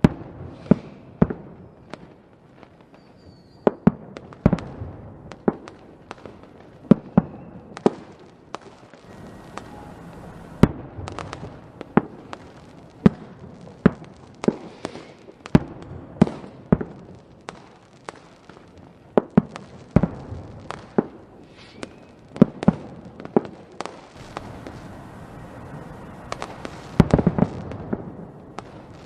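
Fireworks going off, a quick irregular series of sharp bangs and cracks echoing over a steady background hiss, with a dense cluster of bangs near the end.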